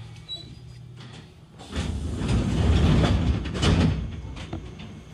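Train noise: a loud rushing swell that builds about two seconds in, holds for a second or so, and fades away.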